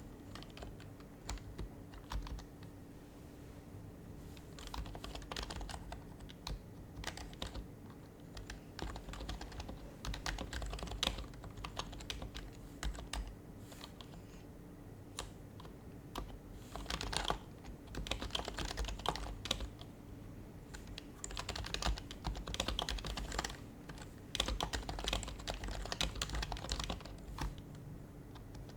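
Typing on an HHKB Professional HYBRID Type-S keyboard, its quiet Topre keys clicking in bursts with short pauses between runs.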